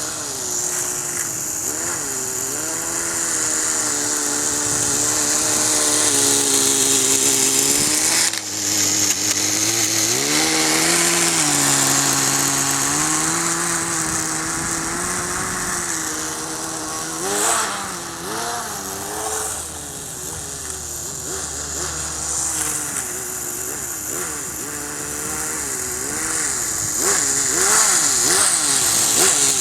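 Small two-stroke nitro glow engine of a Kyosho Nitro Blizzard radio-controlled tracked snow vehicle running, its pitch rising and falling as the throttle is worked, with a brief drop about eight seconds in and quick revving wobbles later on.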